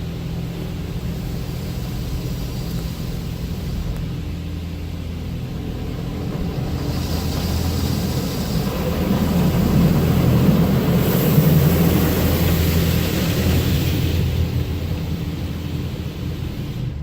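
Automatic car wash machinery heard from inside the car: a steady low hum, with a rush of noise that builds about halfway through, peaks, and dies away near the end.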